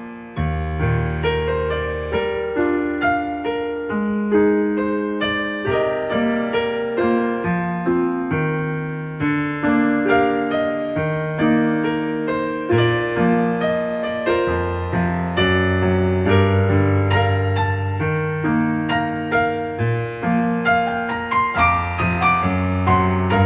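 Gentle piano background music: a slow melody over sustained bass notes.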